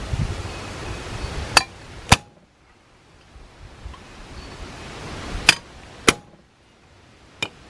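Hammer whacking an extension held on a bronze rivet, setting the rivet that holds the diffuser plate in a Leslie bronze back cap: five sharp metallic strikes, mostly in pairs, with pauses between.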